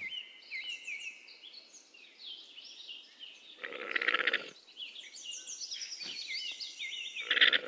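A donkey giving two short raspy calls, about four seconds in and again near the end, over steady twittering and chirping of small birds.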